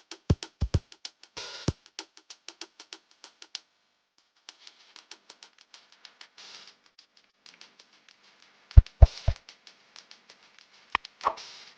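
A rapid, irregular series of sharp clicks and taps, some with a low thump, pausing for about a second near four seconds in, with a few louder knocks around nine seconds.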